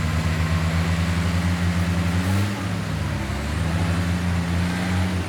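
Heavy diesel engine of earthmoving machinery running steadily. A little over two seconds in, its pitch dips briefly and then recovers, as when the engine is loaded and picks up again.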